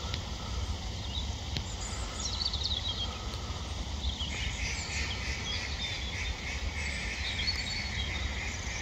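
Small birds chirping and calling, with short high falling notes, over a low steady rumble; about four seconds in, a steady high trill joins and runs on.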